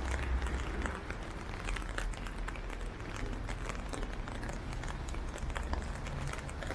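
Steady rain falling, with many quick sharp ticks of drops striking close by over a low, constant rumble.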